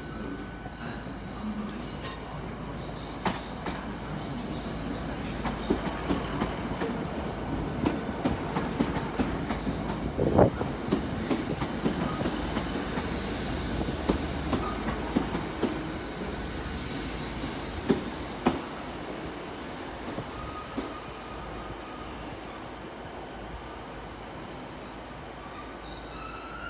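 GWR Class 150 Sprinter diesel multiple unit running in and passing close by over pointwork: a steady rumble of wheels and underfloor engine, with irregular clanks over rail joints and crossings, the sharpest about ten seconds in. A thin high wheel squeal comes in the second half.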